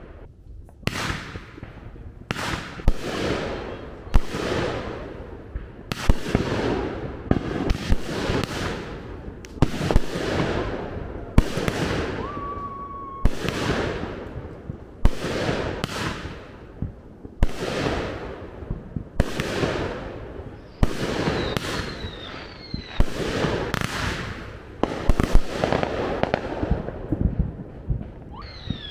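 Consumer firework cakes firing shot after shot, about one to two sharp bangs a second, each dying away within about half a second. A short whistle rises out of the shots now and then.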